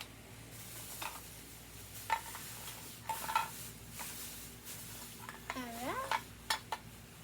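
Small plastic toy kitchen pieces and utensils being handled, with scattered light clicks and clatter that come faster near the end. A short rising hum from a child's voice about five and a half seconds in.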